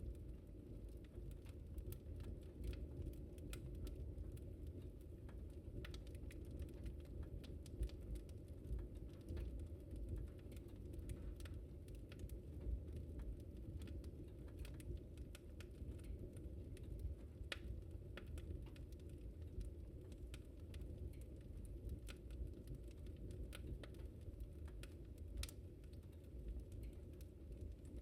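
Wood fire crackling in a fireplace: many small, sharp pops and clicks at an irregular pace over a steady low rumble of the burning fire.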